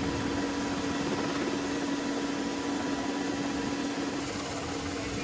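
Military helicopter's machinery running with a steady whirring hum and a constant droning tone, during its engine start-up sequence.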